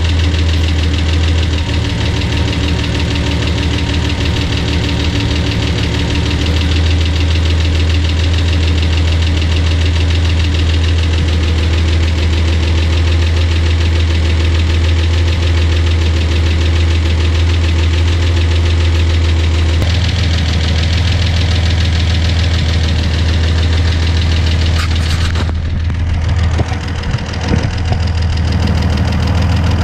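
Datsun 280Z's rebuilt L28 straight-six engine idling steadily while its idle speed is being set back to about 800 rpm.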